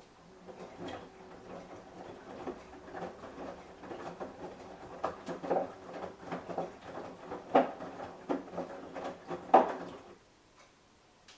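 Samsung Eco Bubble washing machine's drum turning during a wash: a steady motor hum with irregular knocks of the load tumbling. It stops abruptly about ten seconds in.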